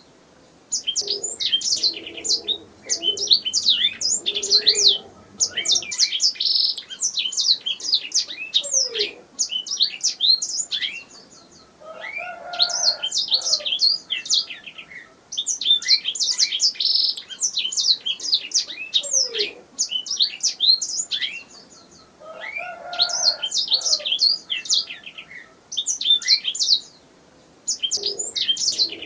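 Canary singing: long phrases of rapid high chirps and trills, each lasting a few seconds and broken by short pauses.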